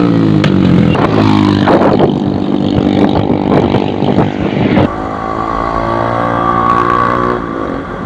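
Suzuki Gixxer's single-cylinder motorcycle engine, fitted with a modified exhaust, held at raised revs with sharp cracks from the exhaust. About five seconds in the revs drop suddenly and it settles to a steady idle.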